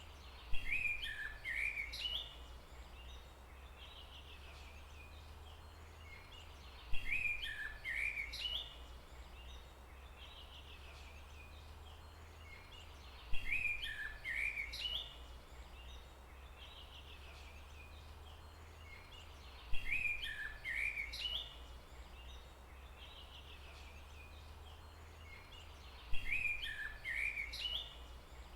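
A songbird singing the same short chirping phrase five times, each about two seconds long and spaced about six and a half seconds apart, over a steady low rumble.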